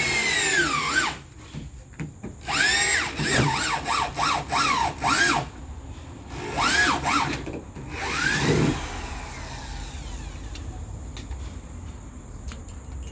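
Power drill boring holes in a freezer's wall, run in short trigger pulses so the motor whine speeds up and slows again each time. There is one longer run, then about six quick pulses, two more and a last one, after which the drill stops.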